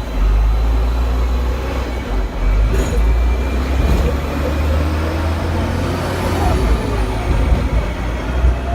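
Hong Kong double-decker electric tram running, heard from on board: a steady low rumble of the car and its wheels on the rails.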